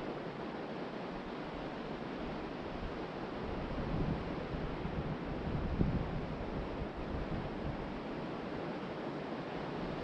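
Ocean surf washing onto a beach, a steady rushing wash with a wave swelling louder about four to six seconds in, with wind on the microphone.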